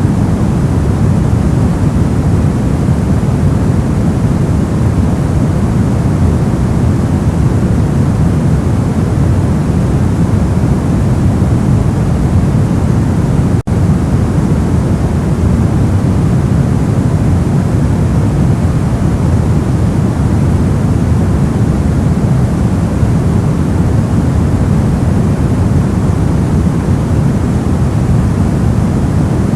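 Steady ambient noise of the white-noise-for-sleep kind, a constant deep hiss and rush weighted toward the low end. A split-second dropout breaks it about fourteen seconds in.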